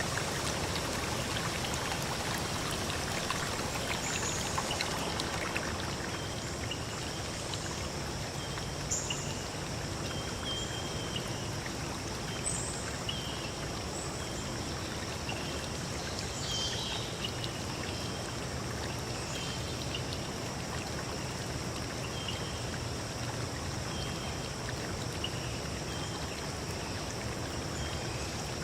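Forest stream running steadily, with birds calling over it: short chirps repeating every second or two and a few higher calls now and then.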